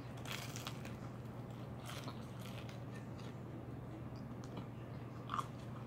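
Biting into and chewing a piece of crispy fried chicken close to the microphone, with several short crunches of the breading.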